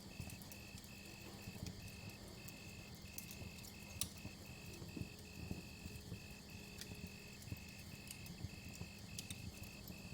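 Wood fire crackling with scattered sharp pops, the loudest about 4 s in, over crickets chirping steadily in a high-pitched trill broken into short, regular pulses.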